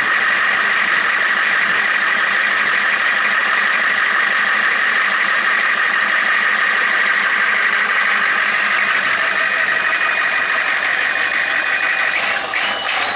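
Monster truck engine running steadily; the sound shifts briefly about a second before the end.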